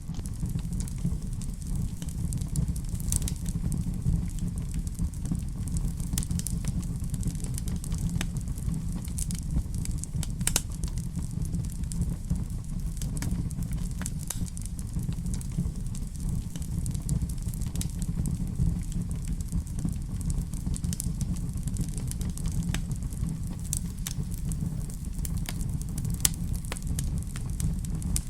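Wood fire burning in a fireplace: a steady low rumble of flames with irregular sharp crackles scattered throughout.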